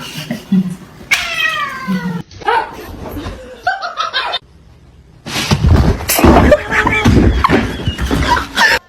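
A cat yowling: one long cry falling in pitch about a second in, then shorter meows. After a short pause, a louder, noisier stretch of sound begins.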